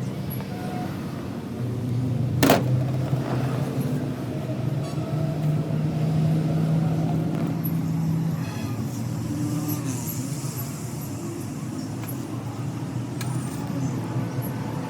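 A vehicle engine running steadily, with a single sharp metallic knock about two and a half seconds in.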